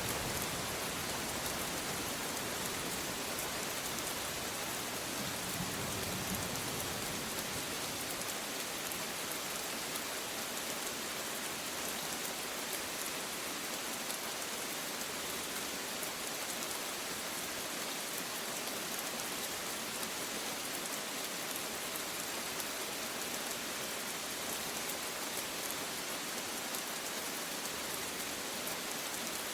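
Steady heavy rain hissing evenly on surfaces, with the last of a thunder roll rumbling away in the first second or two and a faint distant rumble a few seconds later.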